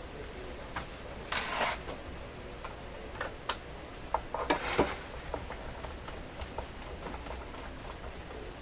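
Small irregular clicks and a brief scraping rustle, from a screwdriver and small parts being handled on a workbench while a long screw is worked out of a transistor radio's cabinet. A low steady hum runs underneath.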